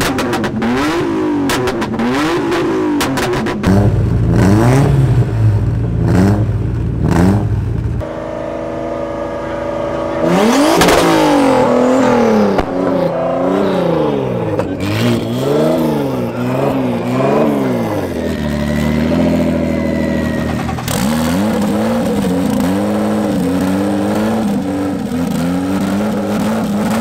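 Drift cars' engines started and revved over and over, the pitch rising and falling in quick blips, at times several engines at once. Several sharp cracks sound in the first few seconds.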